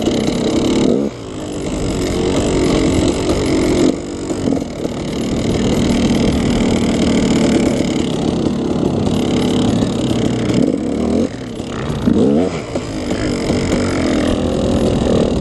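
KTM 300 two-stroke single-cylinder dirt bike engine running under throttle, the revs rising and falling. The throttle drops off sharply about a second in, again around four seconds in, and near eleven seconds.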